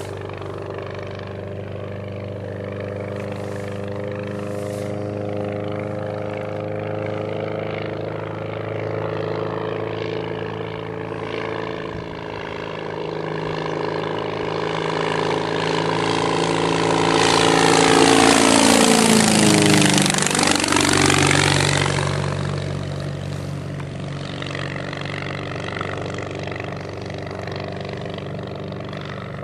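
Homebuilt aluminium ultralight airplane's engine and propeller running steadily as it approaches, growing louder. It makes a low pass close by about 19–20 seconds in, with a sharp drop in pitch, then fades as it flies away.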